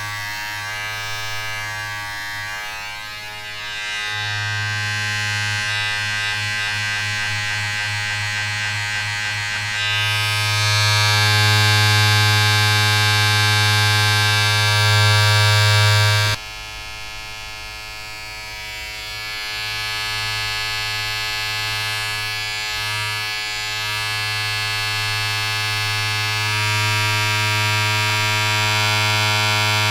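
A steady electric buzzing drone with many overtones over a low hum, like a small motor running continuously. It gets louder and brighter partway through, drops abruptly about halfway, then slowly builds again.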